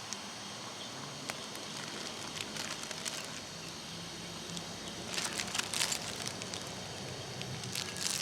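Wood fire crackling and popping over a steady hiss, with a denser run of crackles about five seconds in and again near the end.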